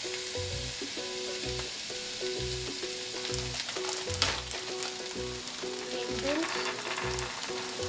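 Sliced squash and red onion sizzling as they sauté in a hot nonstick frying pan, with one sharp knock about four seconds in.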